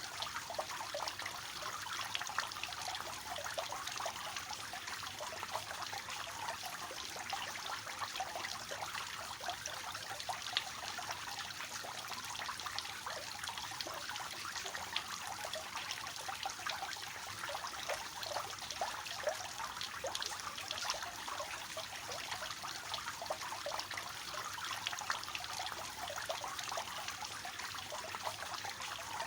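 Water falling steadily from a three-tiered cascade fountain, a continuous splashing trickle.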